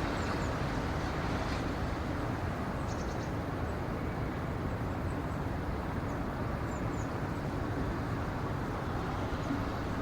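Steady outdoor ambience: an even low rushing noise with a few faint, high bird chirps, including a quick run of four about three seconds in.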